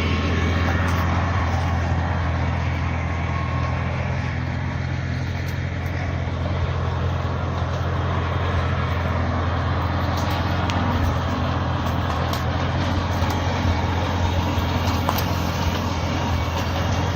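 Cub tractor engine running steadily, with a few light clicks and knocks over it.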